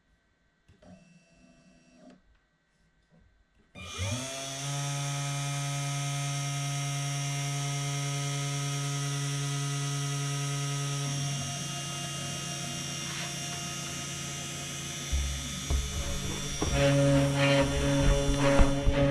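Spindle motor of a small budget CNC router spinning up about four seconds in, rising quickly in pitch and then running with a steady whine. Near the end it turns louder and rougher with irregular rattling strokes as the bit starts carving into the wooden board.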